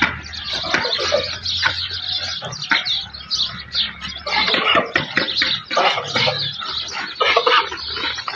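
Birds calling busily: a dense run of short chirps and clucks overlapping throughout.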